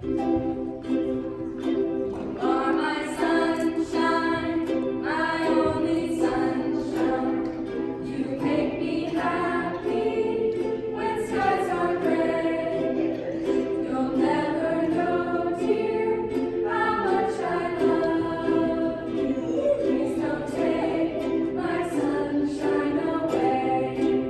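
A song: voices singing a melody over steady held accompaniment chords.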